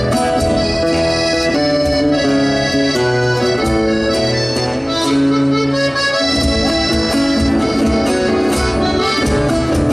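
Accordion-led instrumental folk music, with held chords and a steadier bass rhythm coming in about six seconds in.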